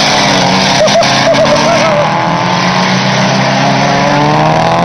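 Several Mitsubishi Lancer Evolution track cars running hard through a corner, their engine notes overlapping, with one engine's note rising steadily as it accelerates out in the last second or so.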